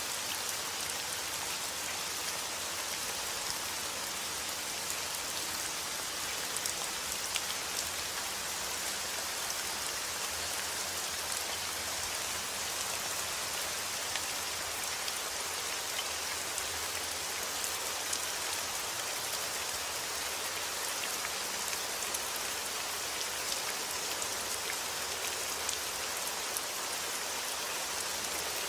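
Heavy rain falling steadily outdoors, a dense even hiss of drops striking surfaces, with fine individual drop ticks throughout.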